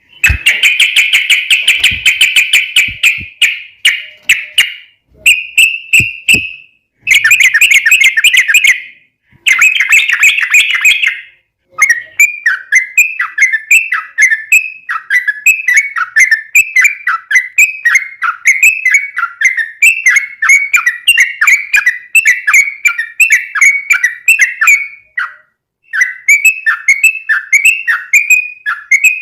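Yellow-vented bulbul (trucukan) singing loudly. It starts with fast chattering phrases broken by short pauses, then from about twelve seconds in runs a long, unbroken string of quick, repeated falling notes.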